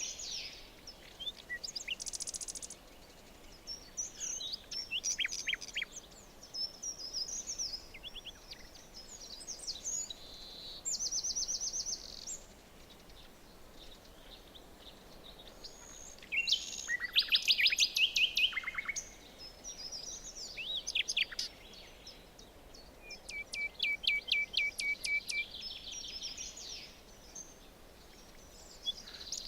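Several songbirds singing and calling in a forest chorus: overlapping chirps, whistles and rapid trills, with the loudest burst of calls about halfway through, over a faint steady background hiss.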